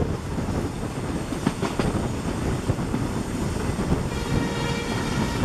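Running noise of an Indian Railways passenger train heard from an open coach door or window: a steady rumble with wheels clicking over rail joints. A thin steady high tone joins about four seconds in.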